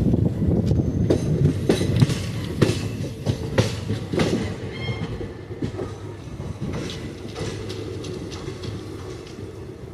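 Train wheels clattering over rail joints and points under a steady low rumble of a train in motion. The knocks are loud and close together at first, then thin out and the whole sound grows quieter.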